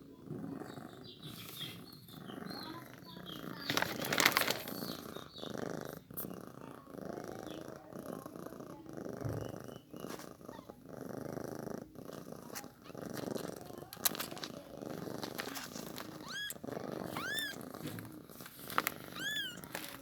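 A cat purring close up, a continuous pulsing purr. Near the end come three short high-pitched cries, each rising and falling, typical of newborn kittens mewing.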